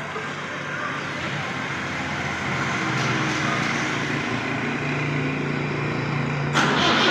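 Tractor engine running steadily, growing slowly louder, with a sudden jump in loudness and hiss near the end.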